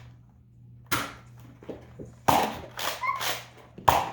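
Nerf blasters firing foam darts: three sharp shots, roughly a second and a half apart.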